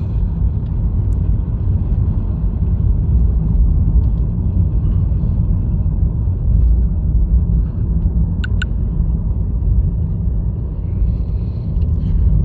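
Steady low road and tyre rumble inside a Honda Fit's cabin while driving on a snowy, icy road, with two brief clicks a little past halfway.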